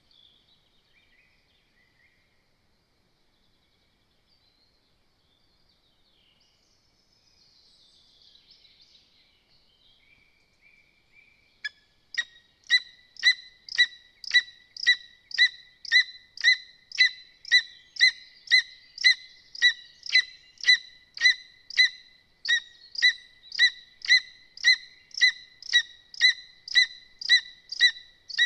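A lesser spotted eagle calling: a long, evenly spaced run of short, loud, same-pitched calls, about two a second, starting roughly twelve seconds in. Before that there are only faint, scattered small-bird chirps.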